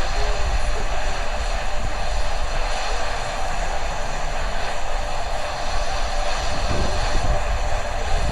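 Steady outdoor background noise: a low, fluctuating rumble under an even hiss, with no distinct event.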